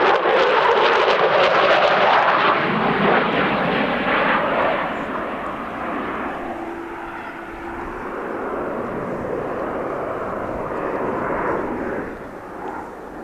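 Fixed-wing aircraft flying past, its engine noise loud at first and fading over the first five seconds as it moves away, then carrying on as a lower, steady rumble.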